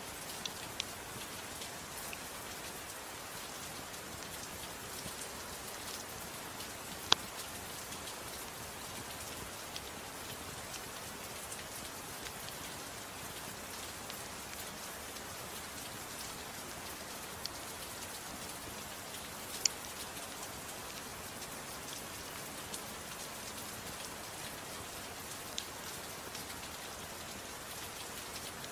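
Steady soft rain hissing, with a few sharp crackles of a wood fire now and then, the loudest about seven seconds in and another near twenty seconds.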